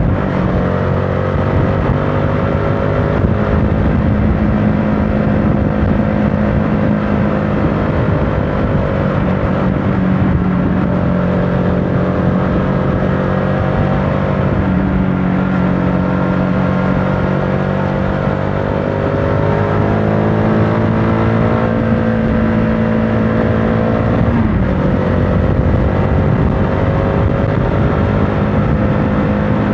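Motorcycle engine running under way. Its note dips and climbs again several times, with wind and road noise underneath.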